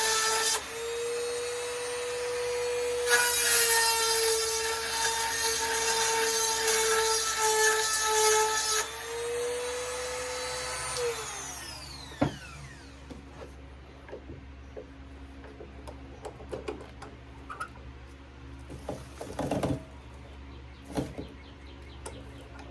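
A small high-speed rotary tool running with a steady high whine, its bit grinding the cutting teeth of a chainsaw chain in two stretches of harsh rasping. About eleven seconds in it is switched off and the whine falls away as it spins down, followed by a few light clicks of the tool and chain being handled.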